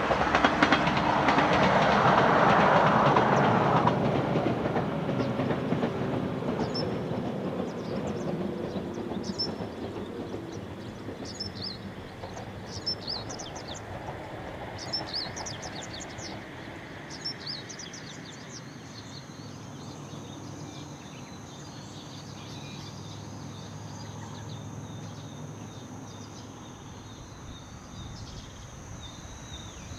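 A 113 series electric train runs past, loudest in the first few seconds, its noise dying away over about ten seconds as it moves off. Birds chirp as it fades, and a faint steady high-pitched tone comes in a little past halfway.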